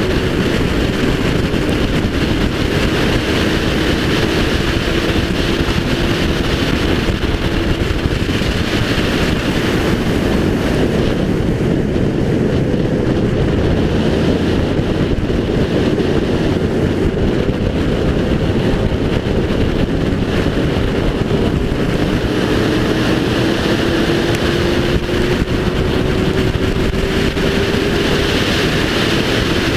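Race car engine running at speed under load, with heavy wind and road noise rushing past. The engine note rises slowly as the car accelerates near the start and again over the last few seconds.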